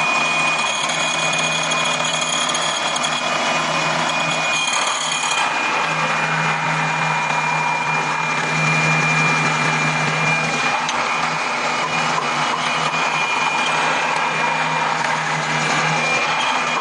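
Drilling machine running steadily as it bores holes in wood, a constant motor hum with a thin high whine over the noise of the cutting. About five seconds in, the highest hiss falls away.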